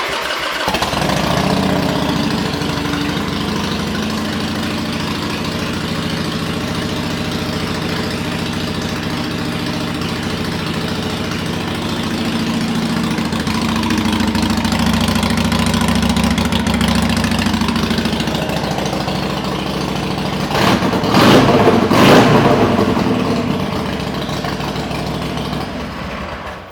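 Harley-Davidson Sportster 883 Superlow's air-cooled V-twin, with Vance & Hines pipes, starting up and idling steadily. The throttle is blipped twice in quick succession near the end, and then the engine is switched off.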